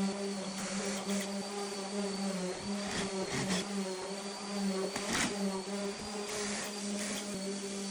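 A steady electric motor-like hum, with a few short knocks and clicks: one about three seconds in, one shortly after, and one about five seconds in.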